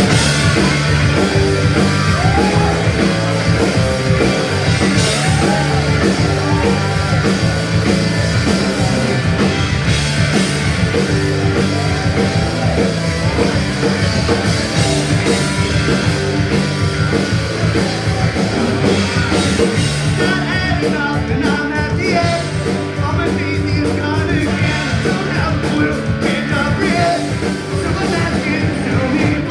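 Punk rock band playing live: distorted electric guitars, bass and drum kit kick in together at once, with shouted male vocals over them.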